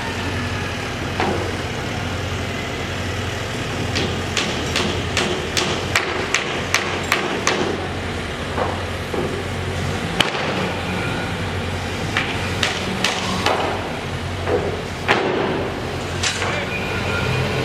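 Construction work: a steady machine hum with a run of sharp knocks, about two a second, from about four seconds in for several seconds, then scattered knocks.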